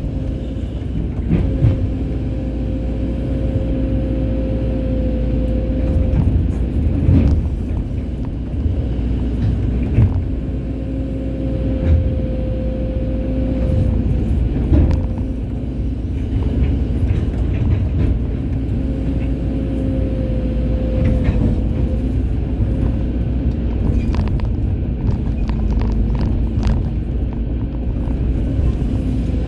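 Hydraulic excavator running and working, its diesel engine rumbling steadily with scattered knocks. A held tone comes in and drops away three times as the machine works.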